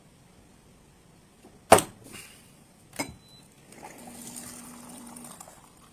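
Two sharp knocks a little over a second apart, then a soft steady hiss with a faint low hum lasting about a second and a half.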